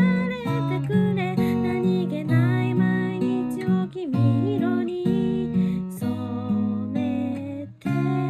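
Acoustic guitar playing a song, chords underneath with a melody line on top, dropping away briefly just before the end.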